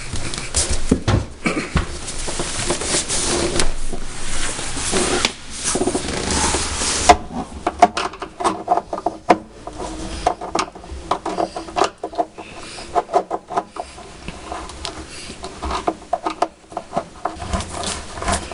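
A screwdriver working the screws out of a European cupboard-door hinge. Several seconds of scraping and rubbing, then a long run of small, irregular metal clicks.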